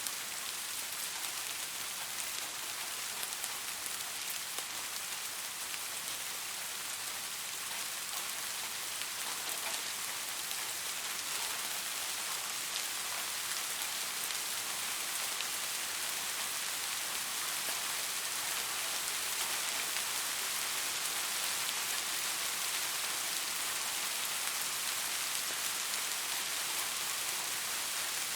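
Steady rain falling and pattering on a surface, an even hiss with fine drop ticks and no thunder.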